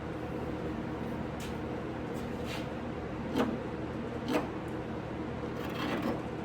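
About four short, spaced scraping strokes of a hand tool on soft, partly cured body filler over a steel door skin, over a steady background hum.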